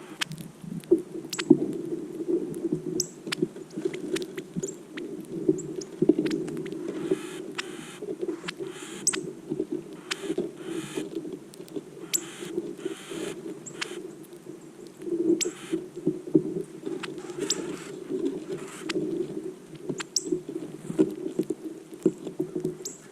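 A flock of northern cardinals at a feeder giving sharp chip notes, each starting high and dropping, scattered irregularly with several overlapping, over a steady low rumble.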